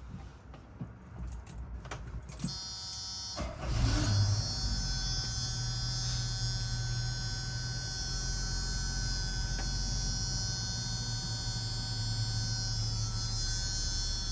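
1976 Chevrolet Blazer engine cranking and catching a few seconds in, then idling steadily. A steady high-pitched buzz runs above it from shortly before the start.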